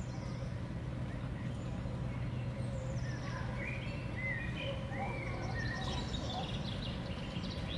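Small songbirds at a seed feeder giving short chirping calls, several in quick succession from a few seconds in, over a steady low background rumble.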